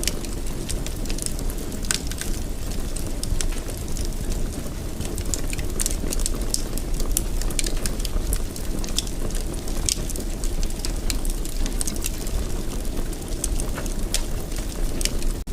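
Fire in a fireplace crackling steadily, with frequent short sharp pops and snaps over a continuous low rumble of burning.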